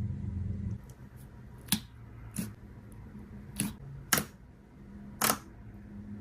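Slime being pressed to pop its air pockets, giving five sharp pops spread over about four seconds.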